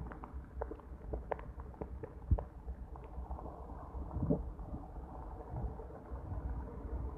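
Heavy rain heard through a wet phone microphone: muffled, with a steady low rumble and many irregular sharp taps of drops on the phone, and one louder knock a little over two seconds in.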